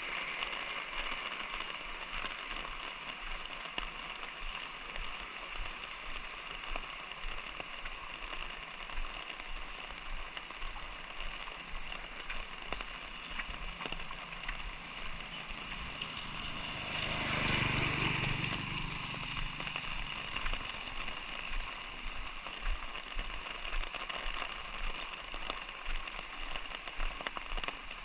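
Light rain falling steadily, with scattered drops ticking close by. About two-thirds of the way through, a vehicle passes, swelling and fading over about three seconds.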